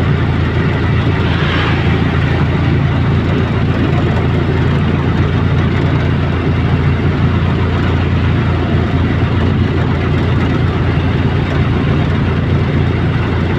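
Steady low rumble of a running motor vehicle, with a brief brighter swell about a second and a half in.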